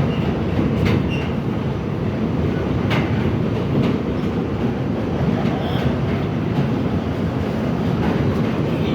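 R68 subway train running along the track: a steady loud rumble of wheels and running gear, with a few sharp clacks over rail joints.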